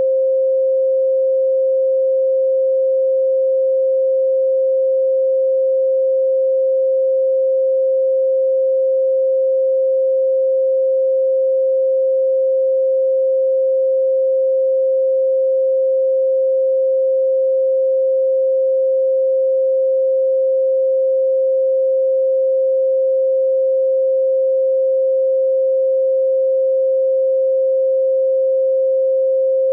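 Steady 528 Hz "solfeggio" sine tone, one pure unbroken pitch.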